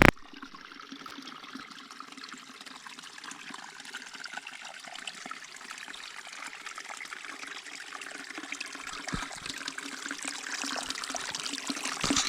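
Creek water trickling and running steadily over rocks, growing a little louder near the end.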